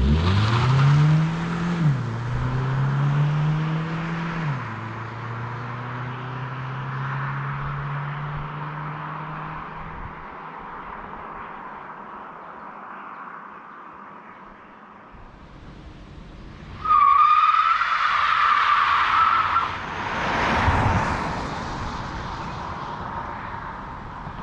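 Kia Niro plug-in hybrid's 1.6-litre petrol four-cylinder under hard acceleration: the engine note climbs, drops sharply with two quick dual-clutch upshifts in the first five seconds, then holds steady over road noise that fades away. About 17 seconds in there is a loud, high-pitched squeal lasting a couple of seconds, followed by a rush of noise.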